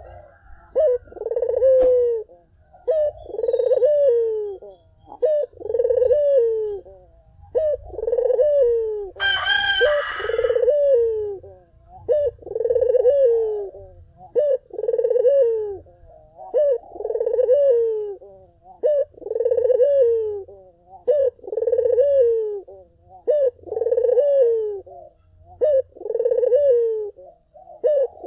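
Puter (Barbary/ringneck dove) cooing in a steady repeated series, about one coo every second and a half, each dropping in pitch. A brief higher-pitched call cuts in once about a third of the way through.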